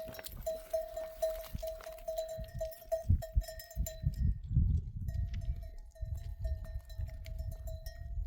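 A livestock bell worn by an animal in a grazing flock, clanking in quick irregular strokes as the animal moves, with a short pause about halfway. Uneven low rumbling noise runs underneath.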